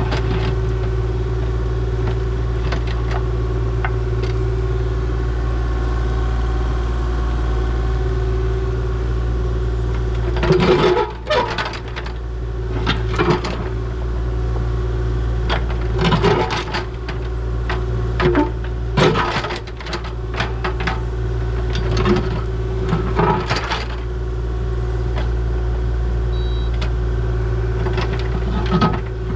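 Excavator's diesel engine running steadily with a constant hydraulic whine. From about ten seconds in come a string of sharp clanks and knocks, a dozen or so, spaced irregularly.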